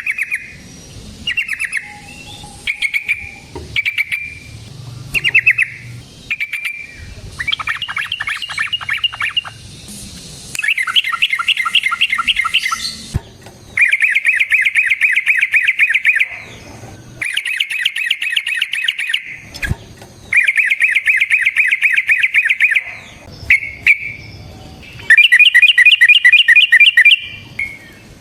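Yellow-vented bulbul (trucukan) singing: short bubbly call phrases about once a second, then long, very rapid rolling trills (the 'ropel' roll) of two to three seconds each, repeated several times. It is a lure song meant to provoke rival bulbuls into answering.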